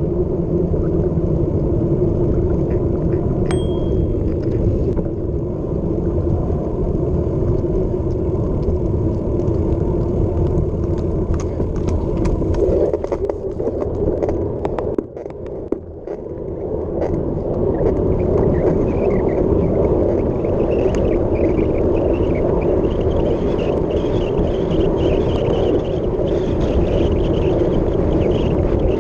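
Wind rushing over the microphone and the rumble of a mountain bike at high speed down a hill. The noise drops briefly about halfway through, then builds again with a higher hiss added.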